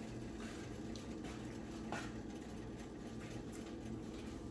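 Quiet kitchen sound: a low steady hum with a soft haze, and a couple of light clicks, from a pot of cream sauce simmering on the stove.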